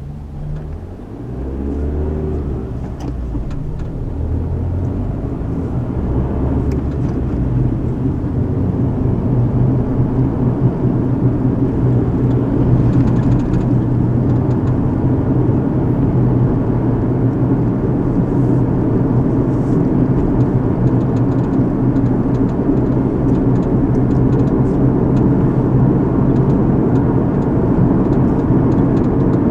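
Car accelerating, its engine and road noise rising over the first several seconds, then settling into a steady cruising drone of engine and tyres, heard from inside the cabin.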